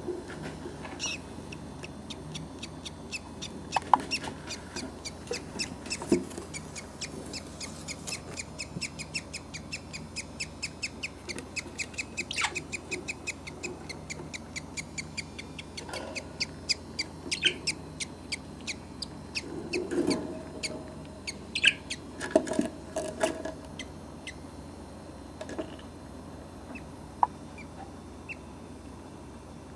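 Budgerigars chirping: a fast run of short chirps, about four a second, with a few louder calls in between, thinning out near the end.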